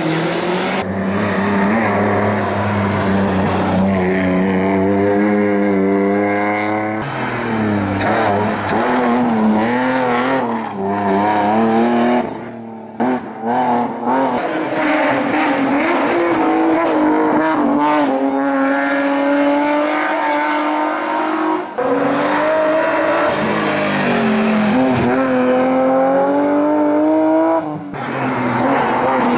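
Hillclimb race cars at full throttle, engines revving hard, pitch climbing and dropping with each gear change. Several passes follow one another with abrupt changes between them.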